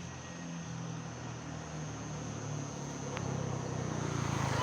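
A motor vehicle's engine running, its low hum shifting in pitch and growing louder toward the end as it draws closer.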